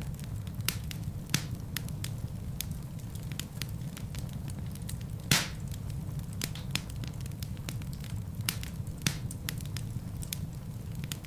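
Wood fire burning in a fireplace: a steady low rumble of flames with irregular crackles and pops from the burning logs, one louder pop about halfway through.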